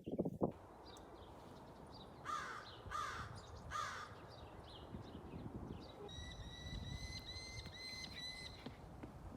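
Wild birds calling: three harsh, rasping calls about two to four seconds in, then a different bird giving a quick run of short, clear high-pitched whistled notes near the end.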